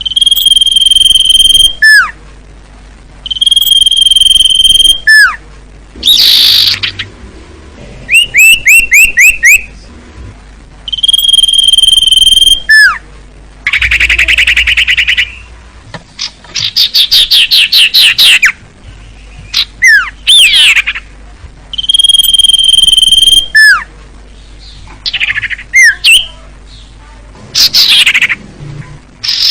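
Common iora (cipoh) singing: long, steady, high whistles, each ending in a quick downward slur and repeated every few seconds, alternating with fast runs of repeated chipping notes and buzzy, rattling phrases.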